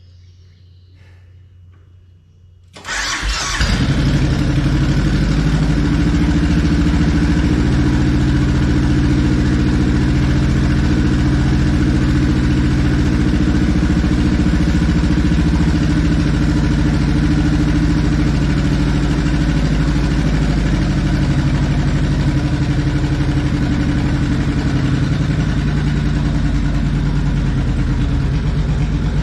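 2005 Suzuki Boulevard C90's 1500cc V-twin engine starting about three seconds in, then idling steadily, freshly refilled with new oil after an oil change.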